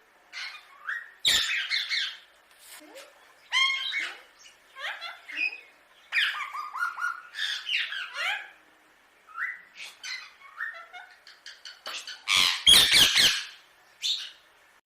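Indian ringneck parakeet calling in a rapid run of short chattering calls that glide up and down in pitch, with two loud, harsh squawks, one about a second in and one near the end.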